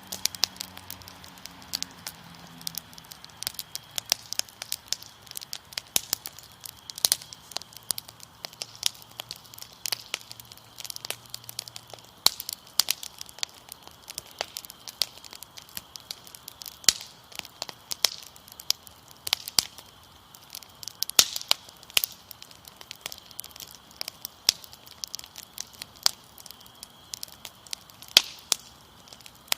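Wood fire crackling with frequent irregular sharp pops, over a steady high chirring of crickets.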